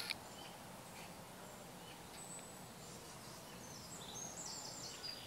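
Faint outdoor ambience: a steady background hiss, with small birds chirping, most clearly about four seconds in.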